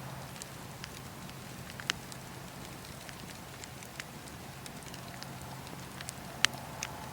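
Campfire burning, with scattered sharp crackles and pops over a steady low hiss. The loudest pop comes near the end.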